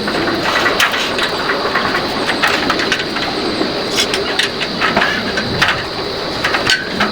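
Pneumatic nail gun firing a string of sharp shots at irregular intervals, over a steady mechanical running noise.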